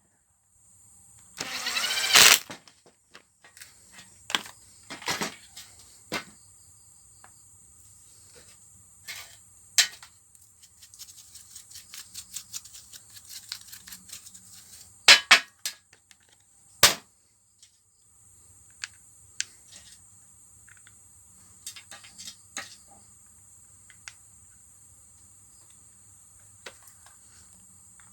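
Scattered clicks and knocks of tool parts and hand tools being handled, with a louder, longer burst about two seconds in.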